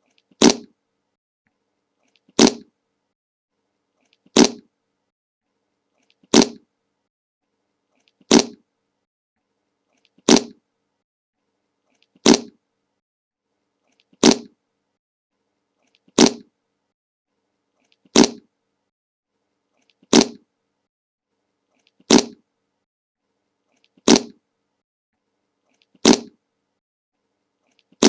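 The same short fart sound effect, the 'Le Monke' meme fart, looped about every two seconds. Each one is a brief sharp blast that dies away quickly, with silence in between.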